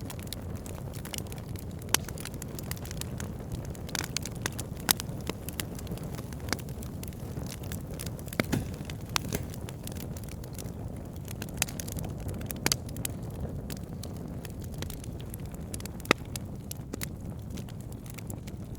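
Wood logs burning in an open fire: a steady low rumble of flame with irregular sharp crackles and pops, a few of them much louder than the rest.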